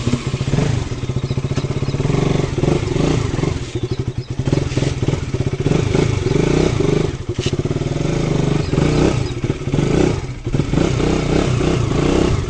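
KTM RC 200's single-cylinder engine running as the motorcycle rides off, its note dipping and rising again several times.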